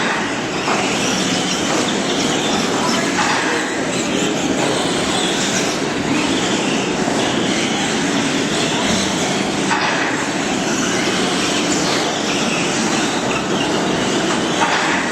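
A pack of radio-controlled stock trucks racing, their motors making a steady, dense whine that rises and falls in pitch as they accelerate and brake.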